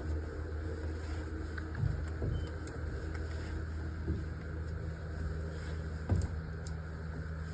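A steady low mechanical hum with a few soft thumps.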